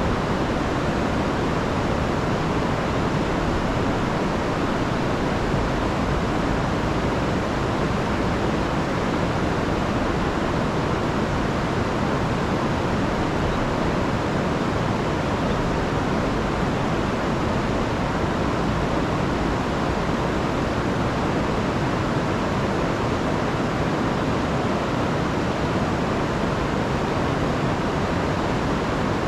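A rain-swollen river rushing steadily, a dense even noise of fast-flowing high water.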